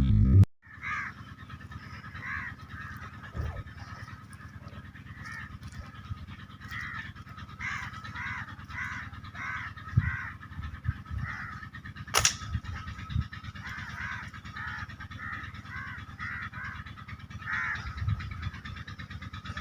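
Crows cawing over and over in short repeated calls, with one sharp click about twelve seconds in.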